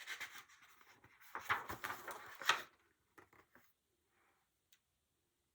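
Paper pages of a picture book rustling and flapping as the book is handled and its pages turned, with small clicks and taps, loudest about two seconds in, then a few faint ticks.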